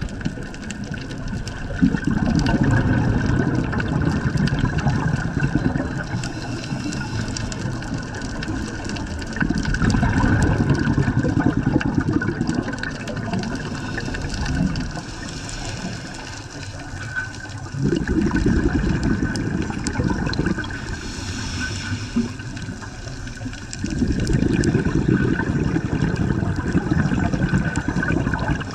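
Scuba breathing heard underwater: bubble rushes from the diver's regulator exhaust come in about four-second surges, roughly every seven to eight seconds, over a steady underwater hiss.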